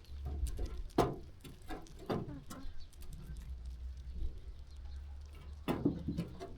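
Sheep moving about: scattered knocks and shuffles of hooves on the ground, loudest about a second in and again near the end, over a steady low hum.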